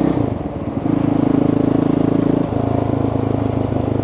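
Dirt bike engine running, with a brief dip in sound just after the start and a step down to a lower, steady note about two and a half seconds in, as when easing off or changing gear.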